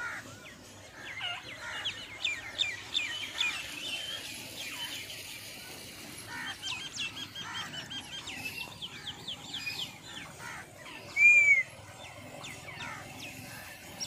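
Many birds chirping in quick runs of short notes, with one louder, short call about eleven seconds in.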